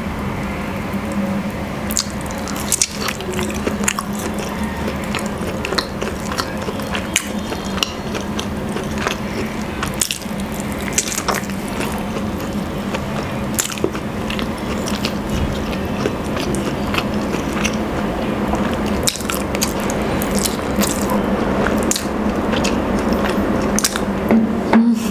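Close-miked chewing and biting of rotisserie chicken, with many sharp wet mouth clicks and smacks. A steady low hum runs underneath.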